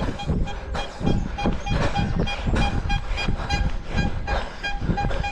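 Running footsteps, about three strides a second, each step paired with a brief high ringing tone from something jingling on the runner.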